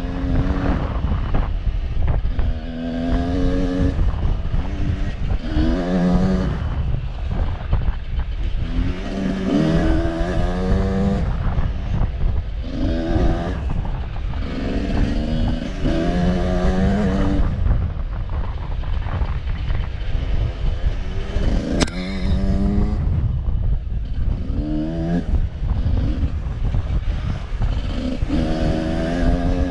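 Off-road vehicle engine under way on a trail, revving up and falling back again and again every couple of seconds over a heavy low rumble and rattle, with one sharp tick about two-thirds of the way through.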